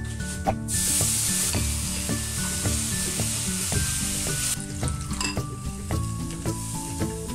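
Liquid seasoning hitting a hot non-stick frying pan of flour-coated chopped onion: a loud sizzle starts about half a second in and dies down about four and a half seconds in to a lighter crackle, with a spatula stirring and scraping the pan.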